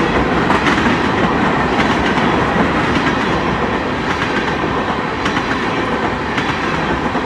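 Freight train cars, including tank cars, rolling past close by at steady speed: a continuous rumble and rattle of steel wheels on rail, with occasional clicks as wheels cross rail joints.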